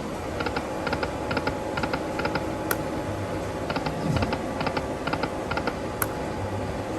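Slot machine's reel-spin ticking: quick clusters of short clicks as the reels spin and stop, over a steady casino background din.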